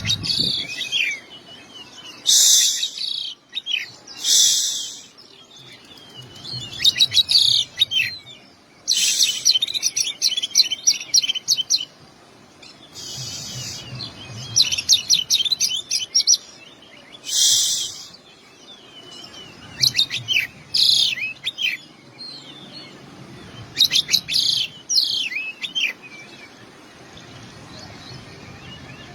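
Oriental magpie-robin (kacer) singing in phrases a few seconds apart: clear whistles, rapid trills and short harsh rasping notes, a varied song full of 'isian', phrases mimicked from other birds.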